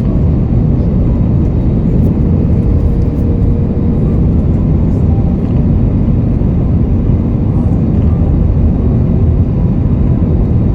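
Steady low rush of airflow and engine noise inside the cabin of an Airbus A320neo descending on approach to land.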